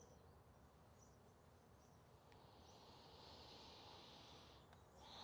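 Near silence: faint room or outdoor ambience, with a soft high steady hiss that rises about halfway through and drops out for a moment near the end.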